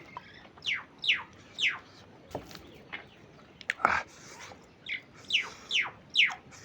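A bird calling repeatedly with short, sharply falling whistled notes, about seven in all, in two runs: three in the first two seconds and four more from about five seconds in.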